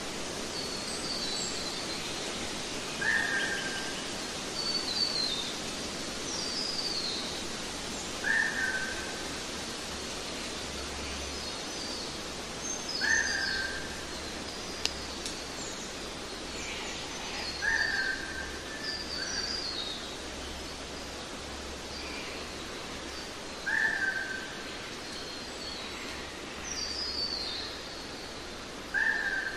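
Birds calling over a steady hiss. One bird repeats a short call about every five seconds, while others give quick higher chirps that slide downward in pitch.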